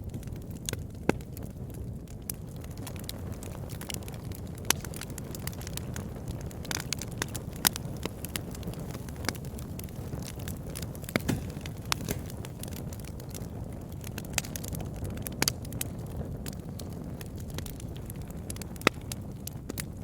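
Wood campfire burning, a steady low rumble of flames under irregular sharp crackles and pops, a few a second, with several louder pops scattered through.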